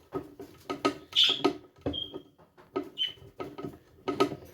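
Irregular knocks and clicks of a hollow wooden nesting box being handled and worked on, each with a short hollow ring. A few short high squeaks come about one, two and three seconds in, the first the loudest sound.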